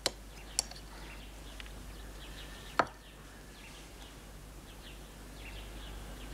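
Faint birds chirping in the background, short high chirps that come in over the second half, over a low hiss. A few soft clicks early on and one sharp click just under three seconds in.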